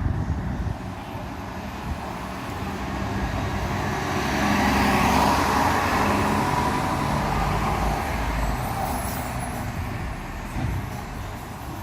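Road traffic: a passing vehicle swells to its loudest about five seconds in, then fades away.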